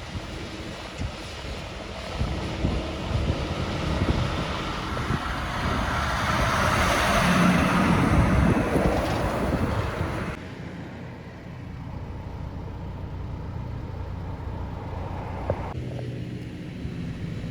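A heavy truck passing on the road, its engine and tyre noise building to a peak about seven or eight seconds in and then fading. The sound cuts abruptly a little after ten seconds, leaving a lower, steady engine hum.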